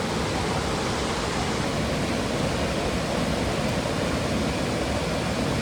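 Steady rush of a mountain stream's flowing water, an even noise that does not change.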